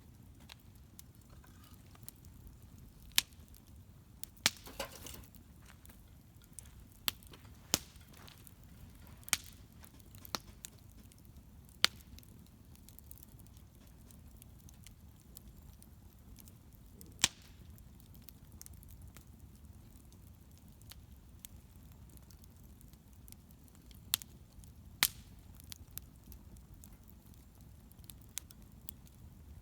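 Wood bonfire crackling: sharp pops at irregular intervals over a low steady rumble, with a short hissing burst about four and a half seconds in.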